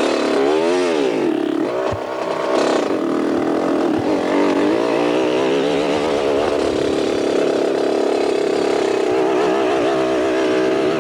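Dirt bike engine revving: its pitch rises and falls sharply twice in the first few seconds, then it runs at a fairly steady speed with a slight waver.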